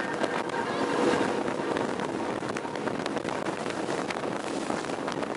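Motorboat under way, its engine running steadily under the rush of water, with wind buffeting the microphone.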